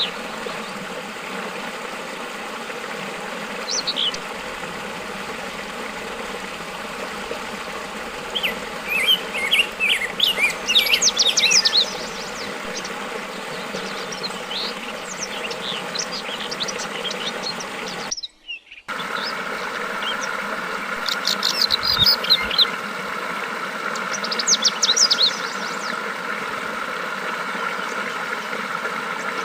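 Yellow-vented bulbuls (trucukan) chirping in clusters of quick, bright notes over a steady hiss of flowing water. The sound breaks off for a moment about two-thirds of the way in, and after that a steady buzzing hum joins the background.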